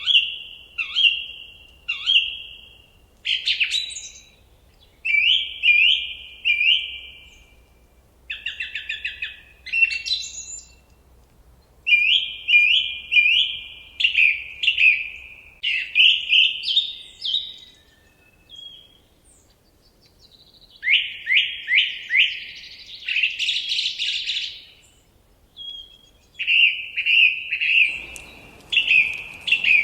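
A songbird singing a varied song of short phrases, each made of two to four repeated sweeping notes, with brief pauses between phrases.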